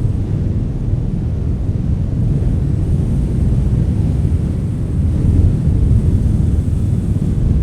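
Wind blowing in a steady, low rumble with no distinct events, swelling slightly about five seconds in.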